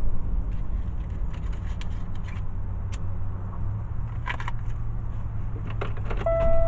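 Car cabin noise while driving: a steady low engine and road rumble with a few small clicks and rattles. A steady electronic tone starts near the end.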